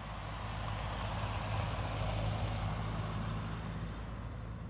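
A motor vehicle passing by, its noise swelling to a peak about two seconds in and then fading, over a steady low engine hum.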